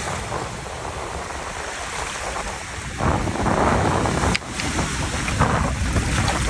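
Lake waves washing onto a stony shore with wind buffeting the microphone, the surf swelling louder about halfway through. A brief sharp knock a little past four seconds in.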